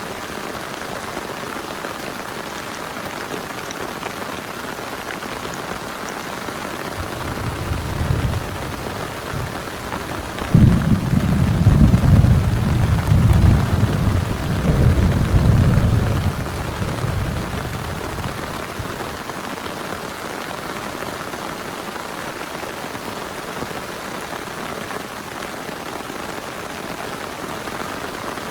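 Steady heavy rain, with a thunder rumble building about a quarter of the way in, then a sudden loud clap and several seconds of deep rolling thunder that dies away, leaving the rain alone.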